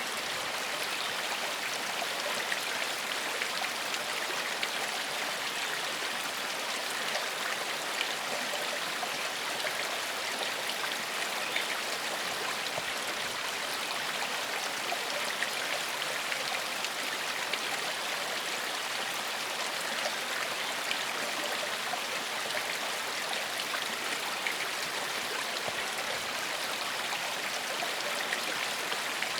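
Shallow forest stream flowing steadily over stones: an even rushing and babbling of water with small splashes scattered through it.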